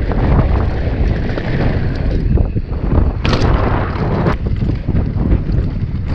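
Wind buffeting the microphone during a downhill mountain-bike run, over a rumble of tyres on a rough dirt trail and many small rattles and knocks from the bike. A louder rush of noise comes about three seconds in.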